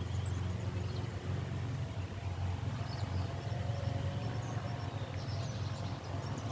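Honda Transalp motorcycle engine running with a steady low drone.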